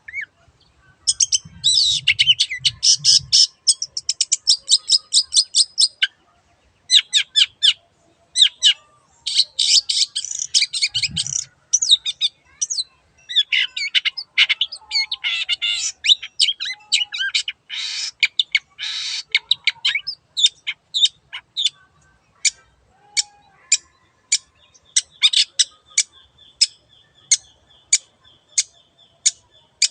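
Long-tailed shrike (cendet) in full song, giving runs of fast, harsh chattering notes. In the later part it switches to a string of sharp single notes, about two a second. A couple of short low thumps sound among the song.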